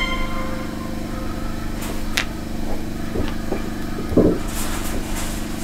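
A steady low motor hum, with a few light clicks and a louder knock about four seconds in.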